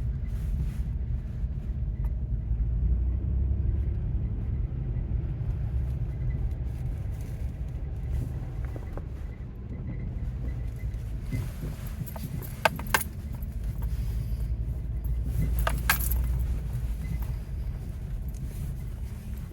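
Steady low rumble of a car driving, heard from inside the cabin, with a few sharp clicks or rattles about two-thirds of the way through.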